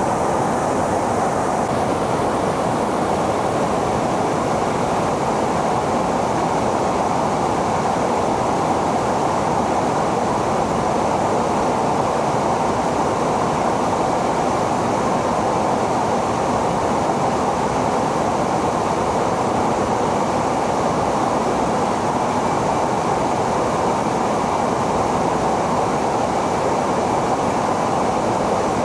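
Steady, unchanging roar of a jet fighter's engine and rushing air, with a faint high whine near the end.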